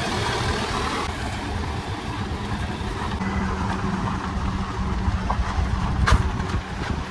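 A motor vehicle running: a steady low rumble with noise on top and a faint steady hum joining about three seconds in.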